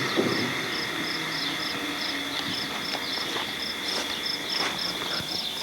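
Crickets chirping in a steady, even rhythm, about three to four short high chirps a second, over a steady high insect hum.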